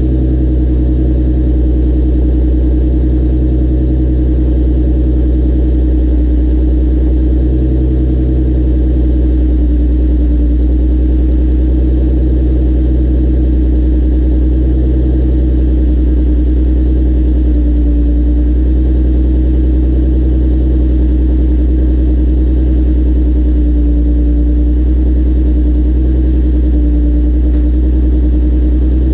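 Nissan 350Z's 3.5-litre V6 running steadily at idle through a MotorDyne aftermarket exhaust, a loud, even drone with only slight wavers in pitch and no revving.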